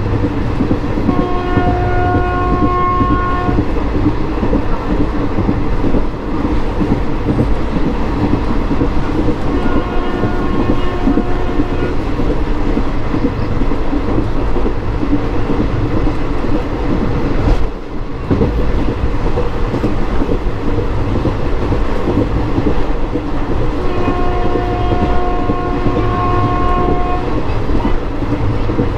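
Express passenger train running, heard from a coach doorway: a steady rumble of wheels on rail. The locomotive's horn sounds three long blasts of a single steady pitch, each two to three seconds, at about a second in, around ten seconds and in the last few seconds.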